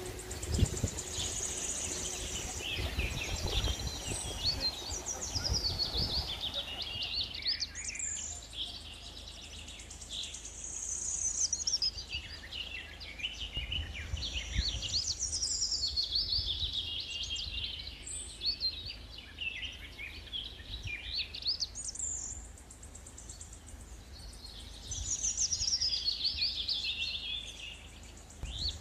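Small songbirds singing outdoors in repeated phrases of high, quick chirps and trills, with short pauses between songs. Low thumps and rumble underneath during the first few seconds.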